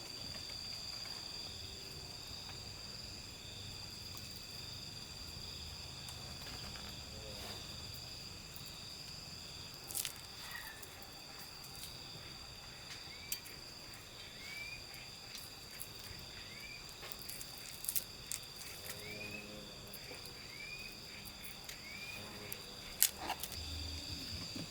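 Steady high-pitched insect chorus of crickets chirping. Over it, a short rising chirp repeats about every second and a half through the middle, and a few sharp clicks stand out near the middle and towards the end.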